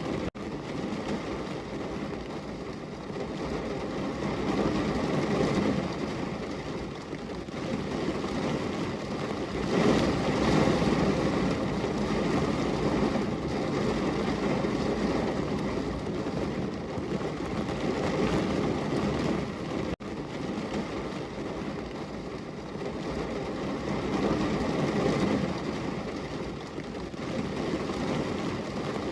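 Heavy rain pouring on a window, a dense, even hiss that swells and eases every few seconds.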